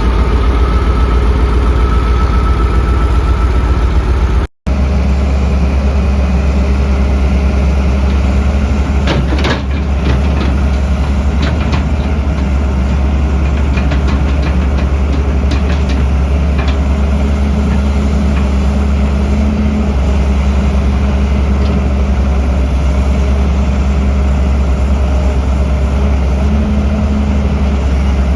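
Heavy construction machinery diesel engines running steadily. The sound breaks off for an instant about four and a half seconds in and resumes with a deeper engine note, with scattered short clanks in the middle.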